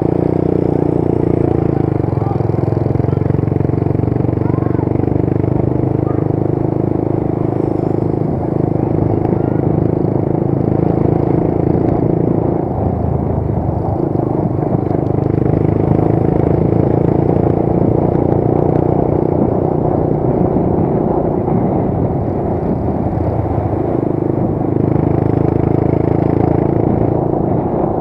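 Motorcycle engine running steadily under way, with road and wind noise; the engine note eases briefly about halfway through and again about three quarters through.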